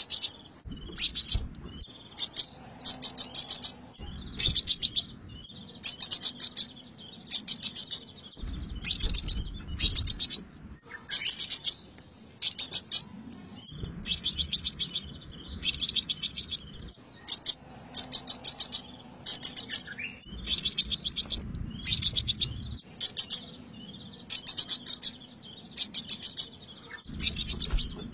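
Sunbird song used as a trapping lure: short bursts of rapid, high, thin chips, one burst after another about every second or two.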